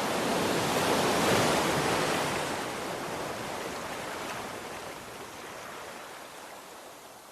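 Ocean waves breaking on the shore: a wave swells to a peak about a second and a half in, then its wash slowly dies away.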